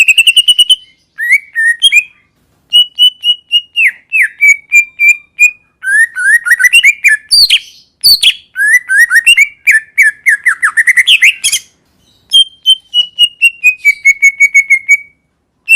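Green leafbird (cucak ijo) singing: loud phrases of rapid, repeated chirping notes, some sliding up or down in pitch, separated by short pauses.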